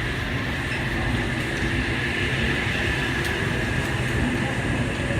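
A train running, with a steady low rumble and a constant hissing whine.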